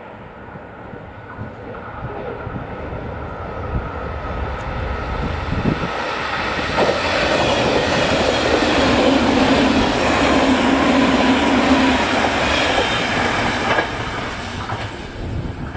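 JR Shikoku 8000 series electric limited-express train passing close by on the rails. It grows steadily louder over the first several seconds, stays loud for about five seconds as the cars go past, then falls away near the end.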